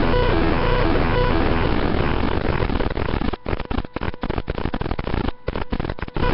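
Keyboard played through a Degrader Shifter noise pedal, its square-wave octave-divided tone heavily degraded: the notes smear into a dense, harsh, buzzing wash, and from about halfway through the sound breaks up, cutting in and out in a choppy stutter.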